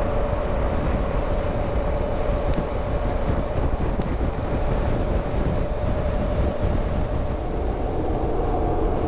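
BMW R1200GSA's boxer-twin engine running steadily at cruising speed, with a constant drone over wind and road noise.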